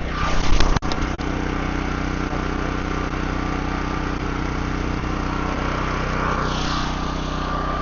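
An engine running steadily at a constant speed, with a few sharp clicks or knocks in the first second.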